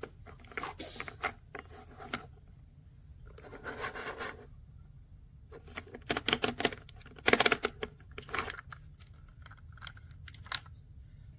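Small plastic toy trucks being handled: irregular clicks, scrapes and rattles of plastic parts, with a few louder clattering bursts in the middle.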